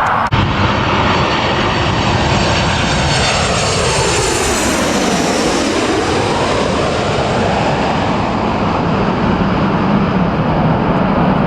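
Aircraft engines passing close by, a loud steady roar with a whine that drops in pitch and sweeps as the plane goes past around the middle.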